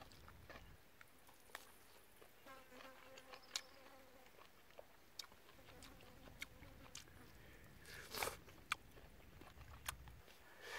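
Faint wet chewing and lip-smacking clicks from someone eating chicken, with a fly buzzing close by for about two seconds a few seconds in.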